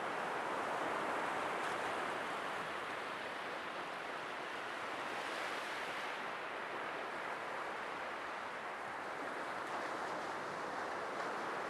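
Sea waves: a continuous rushing wash of surf that swells and eases, with a brighter hiss about halfway through.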